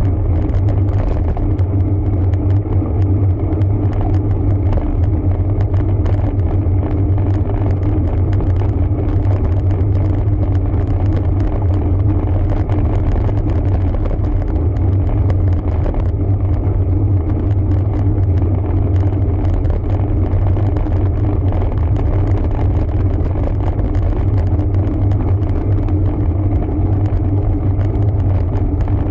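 Riding noise from a road bike on the move: a steady, loud low rumble of wind and tyre sound on the camera's microphone, unchanging throughout.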